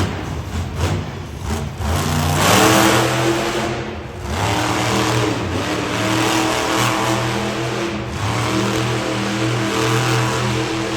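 Monster truck engine revving hard under throttle. It surges about two seconds in, eases briefly near four seconds, then builds again.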